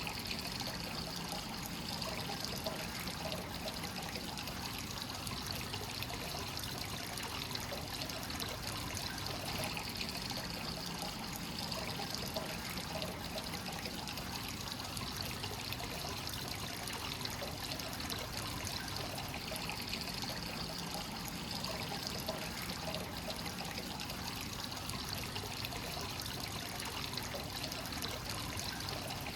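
Hot-spring source water flowing continuously into a bath: a steady trickling pour that does not change.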